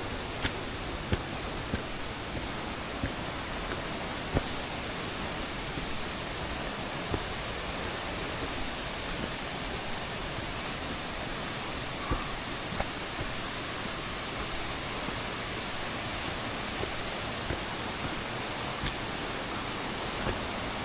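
Steady rush of flowing water from a mountain stream and waterfall, with sharp ticks of footsteps on the path, about one every 0.6 s at first and then fewer.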